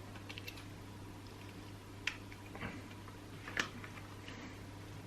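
A few faint clicks and taps from small chainsaw parts being handled and fitted, over a steady low hum.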